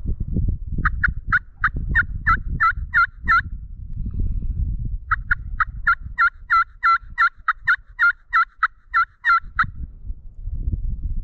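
Turkey yelping: two runs of evenly spaced yelps at about three a second, a short run of about nine notes, then after a pause a longer run of about sixteen. A low rumble lies underneath.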